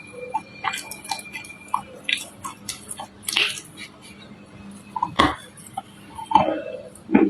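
Close-miked chewing of crunchy nut-studded chocolate chunks: irregular crackling crunches and wet mouth sounds, with a few louder bites, about three and a half seconds and five seconds in.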